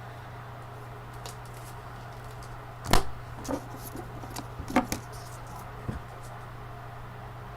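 Trading cards and their hard plastic holders being handled and set down on a table: a few sharp clicks and knocks, the loudest about three seconds in, over a steady low hum.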